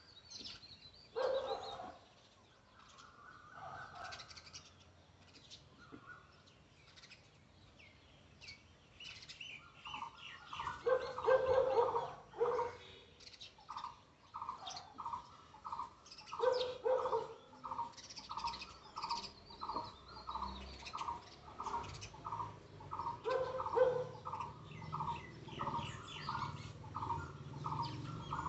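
Birds calling: short, high chirps of sparrows, joined about halfway through by another bird repeating one note evenly about twice a second.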